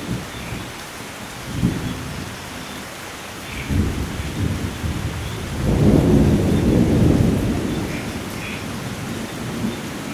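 Steady rain with rolling thunder. Short rumbles come about a second and a half in and again near four seconds, then a longer, louder peal about six seconds in slowly dies away.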